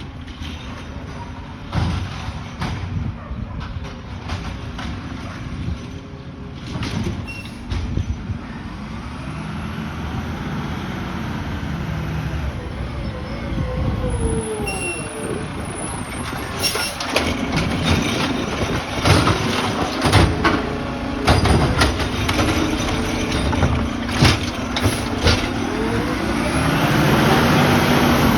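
Garbage truck at work: its engine rises and falls in pitch several times as it revs, with many sharp clanks and bangs, thickest in the second half.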